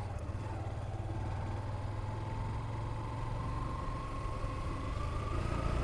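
Motorcycle engine running while riding, a steady low hum with a faint whine rising slowly in pitch.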